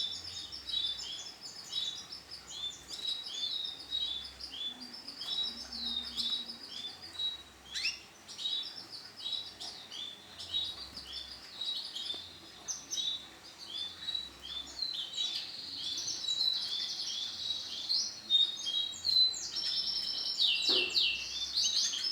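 Canary chirping: a steady run of short, falling call notes about two a second, turning into denser, louder overlapping trilled chirps over the last several seconds.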